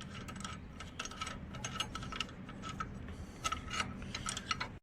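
Irregular light metallic clicks and taps of hand work on a motorcycle's rear wheel and brake linkage as the parts are taken off.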